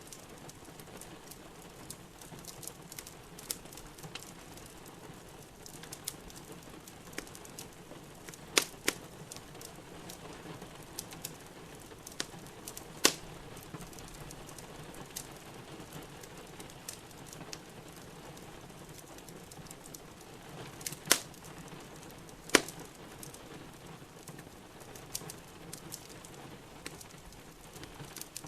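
Wood fire in a fireplace crackling steadily, with a few loud sharp pops (two close together about a third of the way in, one near halfway, two more about three quarters through), over a steady hiss of rain.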